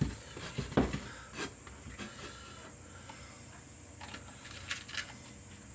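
A few scattered light knocks and clicks of wood and small tools being handled on a workbench, the loudest about a second in.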